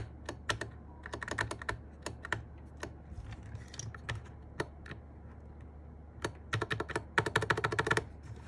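Mechanical keyboard keys with MMD Panda switches being pressed, clattering in quick bursts of clicks with a few lone clicks between them. The densest run comes near the end.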